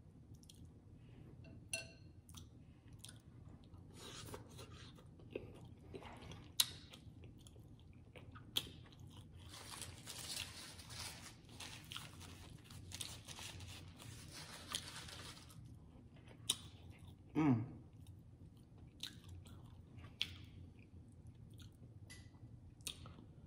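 Close-miked chewing and eating of meat, with wet mouth clicks and smacks scattered throughout. In the middle comes a few seconds of paper napkin rustling, and later a short sound falling in pitch.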